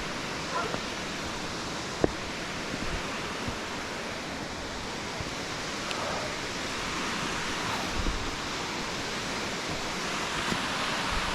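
Waterfall: a steady rush of falling water, with a few faint knocks and clicks.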